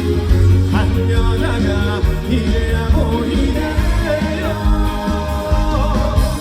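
A live trot song: a male singer's voice over band accompaniment with a heavy bass line.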